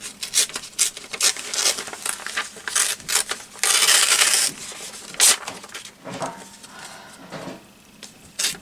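Paper and small craft tools being handled on a desk: rustling, clicks and taps, with a louder rasping sound lasting about a second midway.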